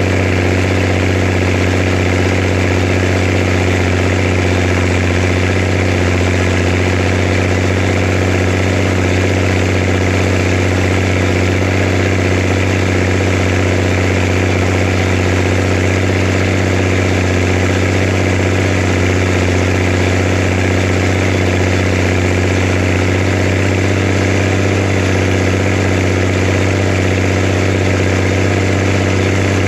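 Zetor Crystal 16145 tractor's six-cylinder diesel engine running at a steady, unchanging speed with a deep constant drone.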